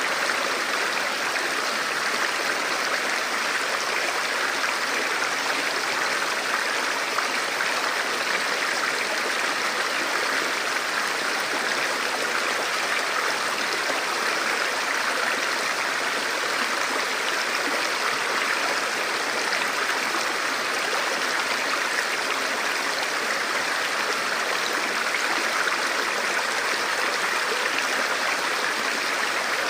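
Forest river flowing steadily over rocks: a constant rushing babble of water.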